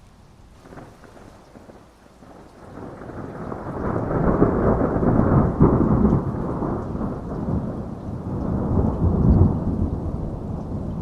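A crackle of thunder, then a long roll of thunder that builds from about two seconds in. It swells twice and is still rumbling at the end, over steady rain.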